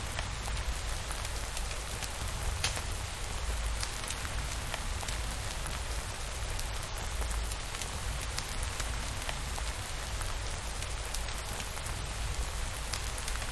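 Steady rain on a surface, an even hiss with scattered sharp ticks and a steady low rumble underneath.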